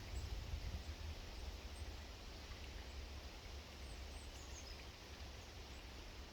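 Outdoor urban background noise: a steady low rumble with a few faint, short, high bird chirps scattered through it.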